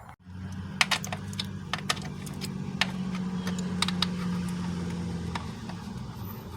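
Irregular light metallic clicks and clinks of hand tools working on the belt and tensioner under the hood, over a steady low hum that fades near the end.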